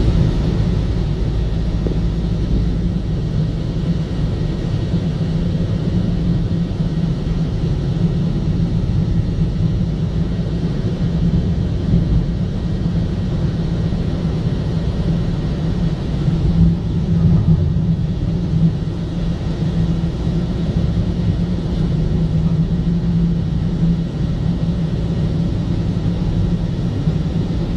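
Car driving on a snowy road: steady engine and tyre rumble with a low hum, unchanging throughout.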